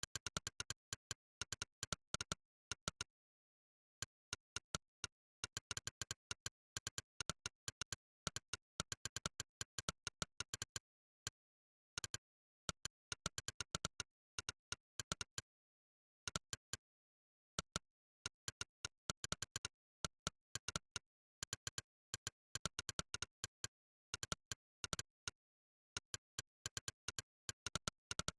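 Monkeytype's synthetic 'click' keypress sound effect, one short sharp click per keystroke, in quick irregular runs of typing with dead silence between clicks and a few pauses of about a second.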